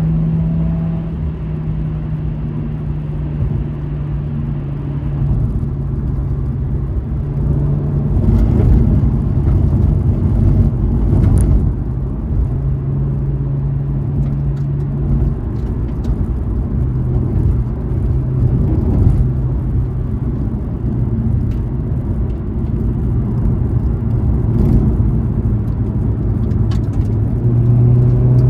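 Mazda RX-8's two-rotor rotary engine running through a Fujita Engineering SonicMuffle exhaust while driving, a steady low drone that settles to a lower pitch just after the start and climbs and grows louder near the end.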